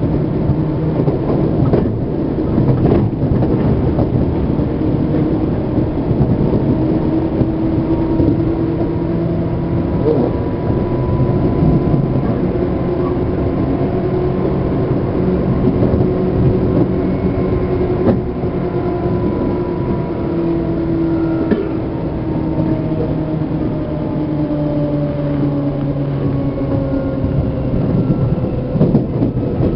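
Interior running noise of a Seibu New 2000 series motor car (MoHa 2291) under way: the traction motors and gears give a steady whine that rises slowly in pitch and then eases down gently, over a constant rumble of wheels on rail. A few single knocks from rail joints come now and then.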